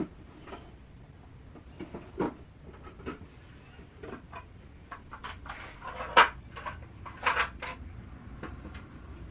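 Scattered clicks and knocks of small objects being handled, the loudest about six seconds in and a quick pair a second later.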